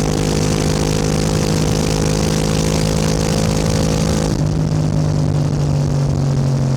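Yamaha R7's 689 cc parallel-twin engine running at steady cruising revs, with a rushing hiss over it. About four seconds in the hiss drops away sharply and the engine note falls slowly, as the throttle is rolled off.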